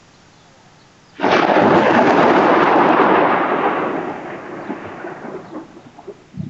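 Thunderclap: a sudden loud crash about a second in that rumbles on for a couple of seconds and slowly fades.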